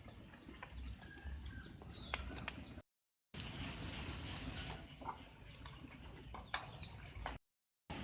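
Birds chirping in short, high calls over a low outdoor rumble, with a few clicks. The sound cuts out completely twice for about half a second each time.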